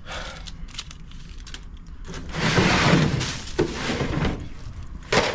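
Cases of bottled soda being handled: scattered clicks and knocks, a loud rattling scrape for about two seconds in the middle, and a sharp knock near the end.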